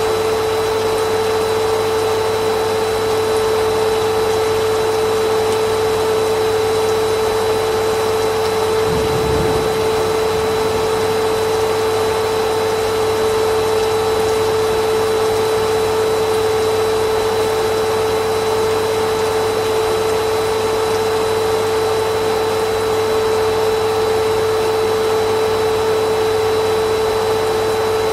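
Vacuum cleaner motor running steadily, a constant high hum over a rushing of air.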